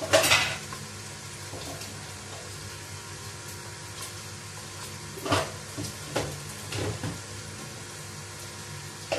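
Taro and potato pieces frying in oil in a large aluminium pot over a gas flame: steady sizzling, with a louder surge right at the start and three more a little past halfway.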